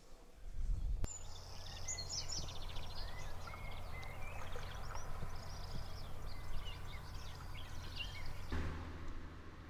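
Several wild birds singing, with many short chirps and quick trills, over a steady low rumble. It starts and stops abruptly.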